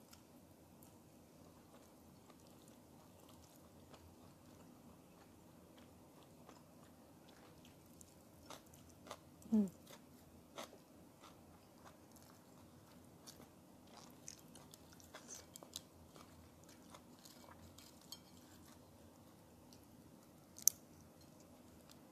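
Faint close-up chewing and mouth sounds of a person eating goat satay with rice, with scattered small clicks. Its loudest moments are a short sound falling in pitch about nine and a half seconds in and a single sharp click about twenty seconds in.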